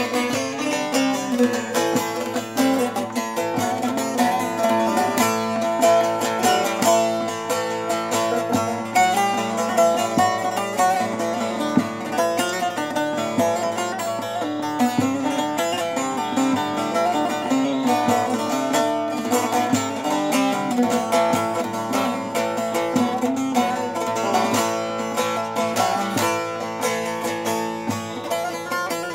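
Short-neck bağlama with a carved chestnut bowl and spruce top being played: a melody picked quickly with many notes a second, strings ringing on.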